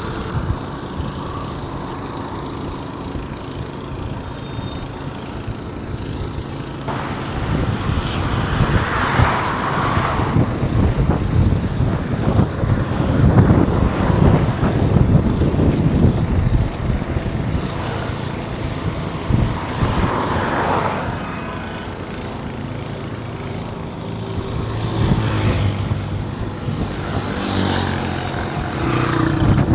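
Road traffic: several vehicles pass one after another, their engines and tyres swelling and fading, over a steady engine hum.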